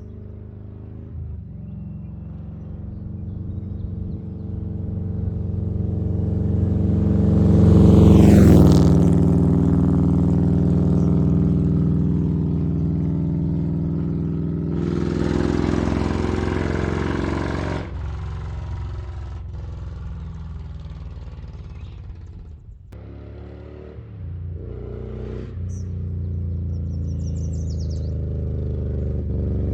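Harley-Davidson Milwaukee-Eight V-twin with an S&S 475 cam, running through Mutazu 2.0 megaphone slip-on mufflers on the road. It swells to its loudest about eight seconds in as the pitch drops away, eases off, dips briefly past twenty seconds, then builds again near the end.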